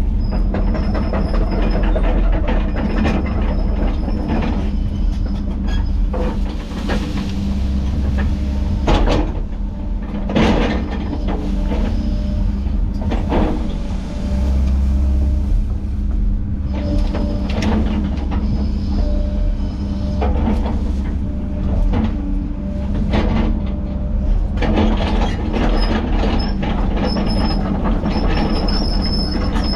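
Heavy tracked diesel machinery working: a steady engine drone with high squeals and a few sharp cracks now and then.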